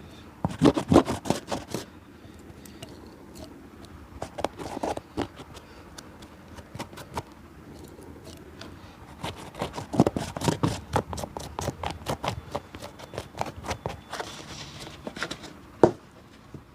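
Shoe repair work: runs of quick scraping and tapping strokes on a shoe, in several bursts, with one sharp knock near the end.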